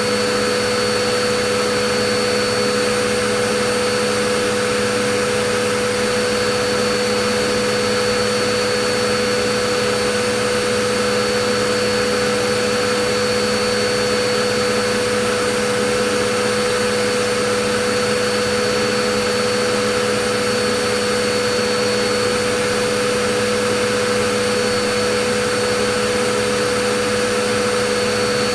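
Vacuum cleaner running at a constant speed: a steady whooshing motor noise with a steady whine, unchanging throughout.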